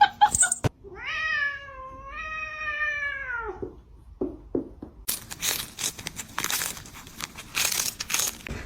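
A cat gives one long, drawn-out meow that falls away at the end. After a short pause, a run of scratchy rustling noises follows.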